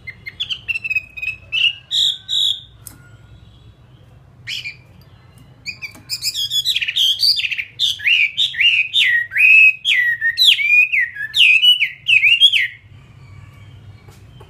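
Chinese hwamei singing: a few short chirps and whistles, then about seven seconds of loud, rapid whistled phrases that swoop down and up, stopping shortly before the end.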